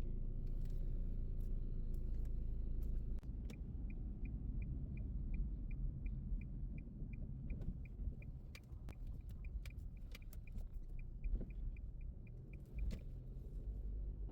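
Low steady rumble with a regular ticking, about three ticks a second, starting a few seconds in and stopping near the end, plus a few scattered clicks.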